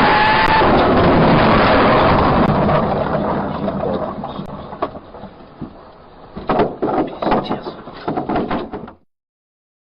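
Loud vehicle noise on a dashcam with a brief squeal near the start, dying away over a few seconds, then a run of sharp knocks and rattles before the sound cuts off abruptly near the end.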